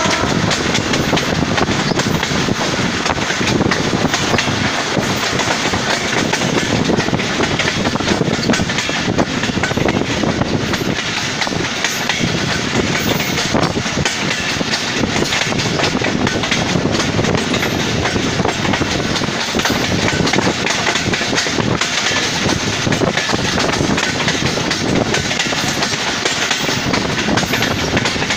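Passenger train running steadily along the track, heard from an open doorway of the coach: a continuous rumble and clatter of the wheels on the rails.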